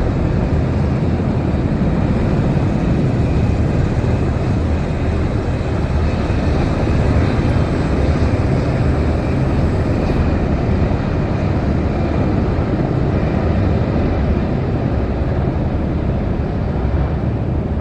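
Loud, steady engine noise of aircraft flying at an airshow.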